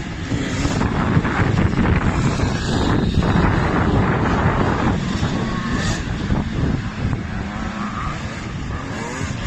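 Motocross motorcycle engines running, with wind buffeting the microphone.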